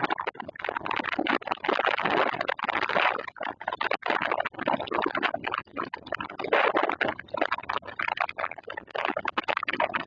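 Summer storm: a rough rush of wind and rain that swells and drops irregularly, in gusts.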